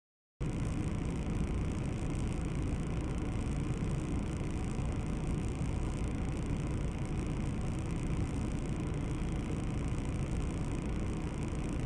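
Steady car engine and road noise picked up by a dashcam in a moving car. It cuts in abruptly after about half a second of dead silence.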